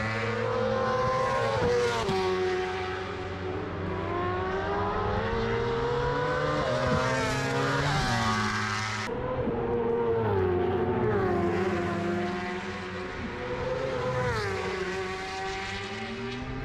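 Superbike engines running hard on track at high revs, their pitch rising and falling as the bikes accelerate and pass, with an abrupt change in the sound about nine seconds in.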